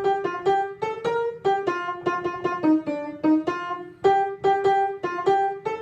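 Keyboard accompaniment playing a brisk run of separately struck notes, an instrumental interlude between sung verses with no voices.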